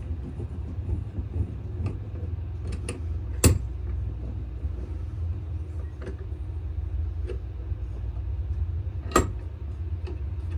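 Sandpaper rubbing over a wooden knife handle in hand-sanding strokes, over a steady low hum, with a few sharp knocks, the loudest about three and a half seconds in and again near the end.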